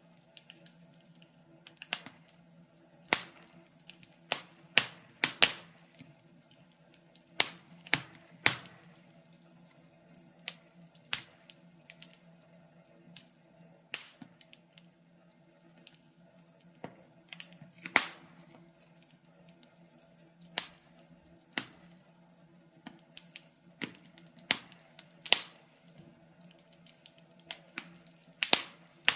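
Wood fire crackling: irregular sharp pops and snaps, a few every second or two, some much louder than others, over a faint steady low hum.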